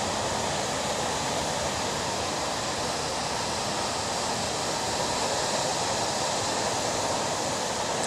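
Ocean surf making a steady, even roar with no single wave standing out.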